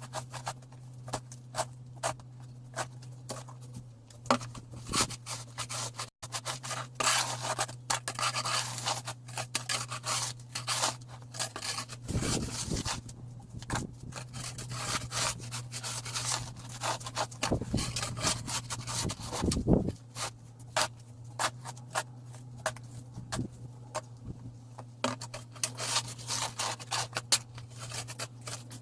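Snow shovel scraping over pavement in many short, irregular strokes, with a steady low hum underneath.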